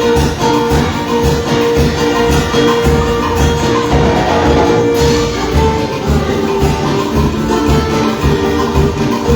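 Band playing upbeat instrumental music with a steady beat, shaken percussion and long held notes.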